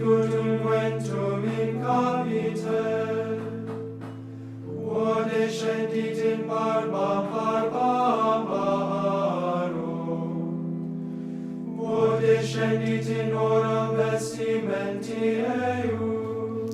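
Choir singing liturgical chant over sustained organ chords, in three phrases with short pauses between them.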